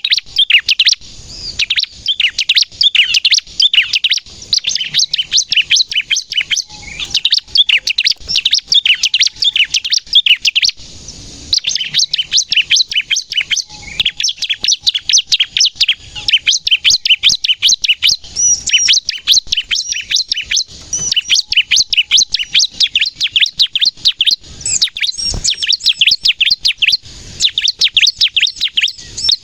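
Bar-winged prinia (ciblek) singing a rapid song of sharp high chirps, many notes a second, in bursts of a few seconds separated by brief pauses.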